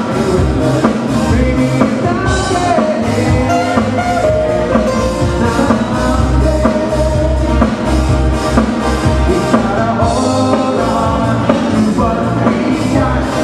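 Live band playing a Hawaiian-style song with singing over bass and a steady drum beat.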